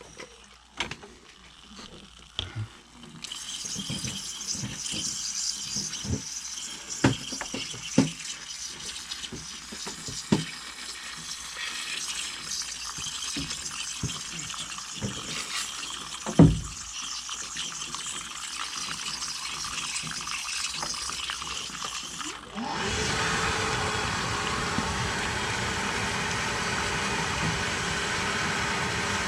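Water spraying onto an air-conditioner coil with a steady hiss and scattered knocks and rattles. About 22 seconds in, a motor starts with a rising whine and then runs steadily and louder.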